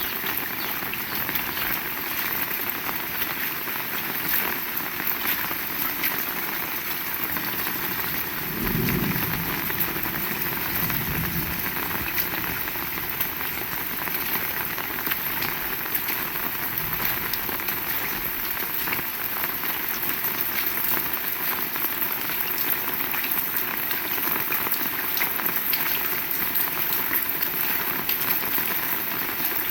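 Heavy rain falling steadily, with many close drops ticking. About nine seconds in a low rumble rises briefly and fades within a few seconds.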